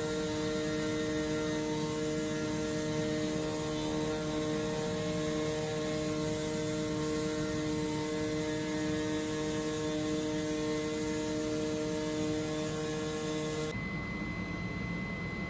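Comagrav Digi Corsa CNC flatbed cutter running: a steady machine hum, several fixed tones over an even rushing noise. Near the end the sound changes abruptly: the lower tones and the high hiss drop out, leaving a single higher whine.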